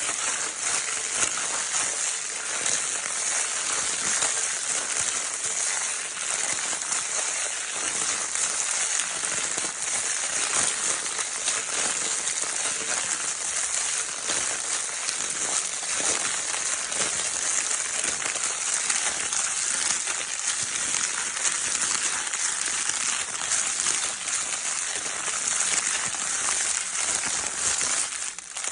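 Baby's crinkle paper toy being continuously crumpled and rustled: a steady, dense crinkling made of many fine crackles, with a brief break near the end.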